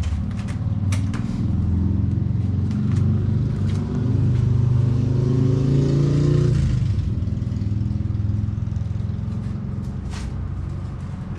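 2003 Kawasaki ZX6RR inline-four engine running after its fuel pump was replaced. Its pitch climbs steadily for about five seconds, drops off sharply about seven seconds in, and then settles to a lower, steady running sound.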